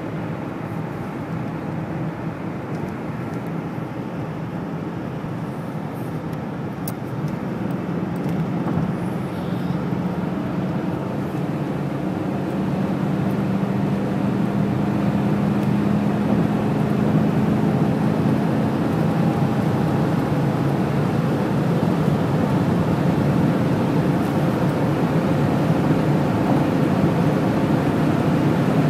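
1996 Cadillac Fleetwood's 5.7-litre V8 accelerating hard at high speed, heard from inside the cabin together with road and wind noise. The engine note and overall noise rise slowly as the speed climbs.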